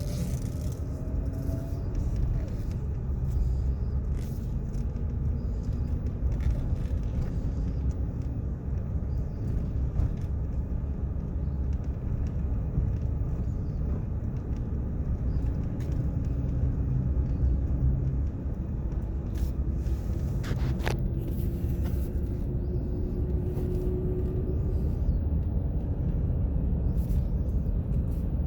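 A car driving along a road, its steady low rumble of engine and tyres running throughout. A faint engine note climbs slowly about two-thirds of the way through.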